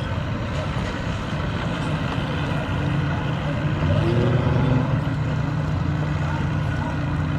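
An engine running steadily at low speed, briefly revving up about four seconds in.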